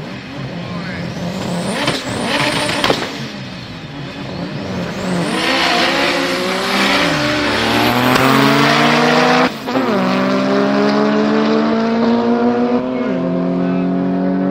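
Porsche 993 GT2's twin-turbo flat-six accelerating hard, the engine note climbing and falling back at three gear changes, about seven, nine and a half and thirteen seconds in. The first few seconds hold rough revving with crackles before the pull.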